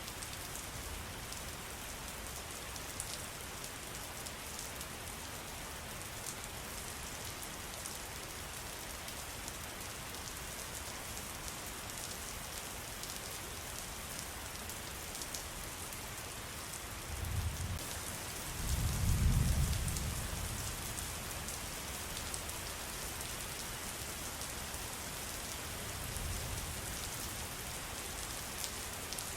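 Steady rain pattering, an even hiss with fine drop ticks throughout. A low rumble swells about two-thirds of the way through, peaks briefly and fades.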